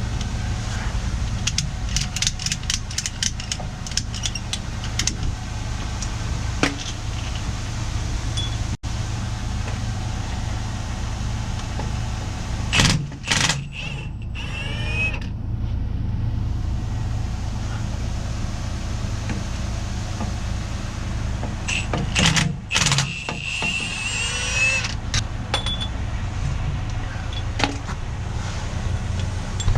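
A truck engine idling steadily, with a run of sharp metallic clicks early on the way and two louder spells of metal clanking and scraping, about halfway through and again a little later.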